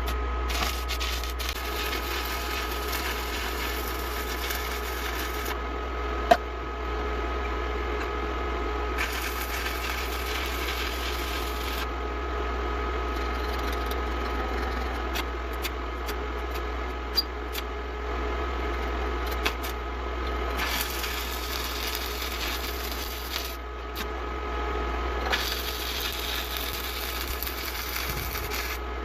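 Shielded metal arc (stick) welding, played back sped up: the arc hisses and crackles in four or five runs of a few seconds each, with pauses between, over a steady low hum.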